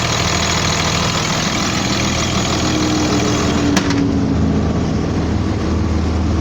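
2001 Blue Bird All American bus engine idling steadily. About four seconds in there is a sharp click, and the higher hiss drops away, leaving a lower, steadier hum.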